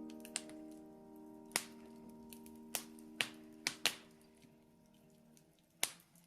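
Wood fire crackling in a fireplace: sharp, scattered pops, about seven in six seconds. Under them a single sustained musical note fades away and is gone near the end.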